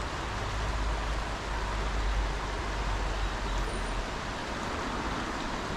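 Wind and road noise while riding an e-bike: a steady rushing hiss over a deep, unsteady rumble, swelling slightly about two seconds in.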